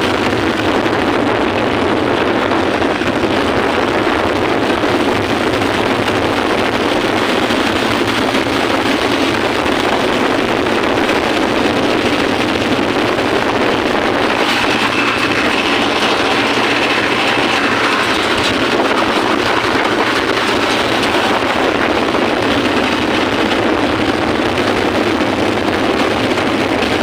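585 DI tractor's diesel engine running at road speed, a loud, steady, noisy drone with no let-up.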